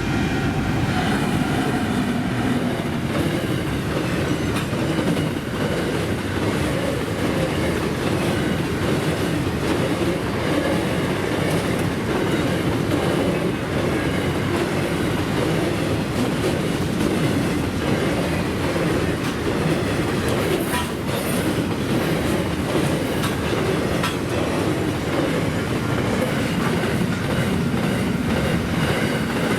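Intermodal freight train rolling through the level crossing at speed, its wagons' wheels rumbling and clattering over the rail joints in a steady, loud stream of noise.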